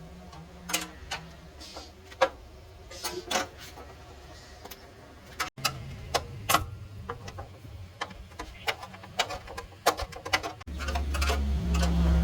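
A series of light, irregular clicks and taps, like hand work on small metal parts. A louder low hum comes in near the end.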